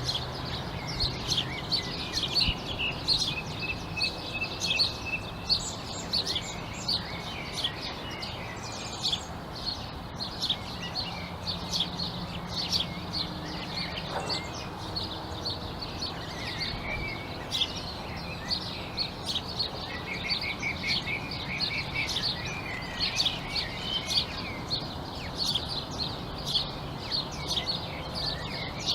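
A chorus of many songbirds chirping: dense, overlapping short high calls, with a couple of fast trilled phrases, one a few seconds in and one about two-thirds of the way through. A faint low steady hum lies underneath.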